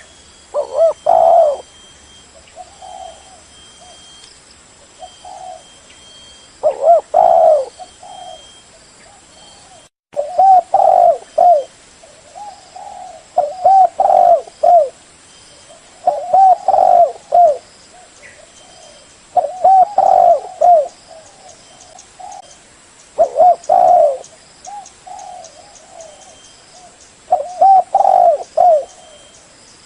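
Spotted dove cooing: loud, repeated coo phrases every three to four seconds, with fainter coos in between.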